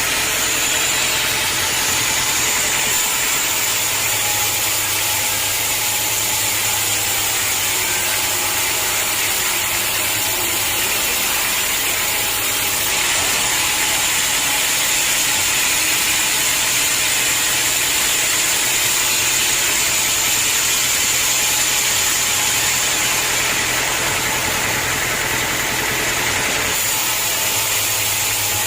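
Sawmill machinery running steadily: the mill's engine and saw make a continuous mechanical noise with a steady high whine. Its tone shifts slightly a few times.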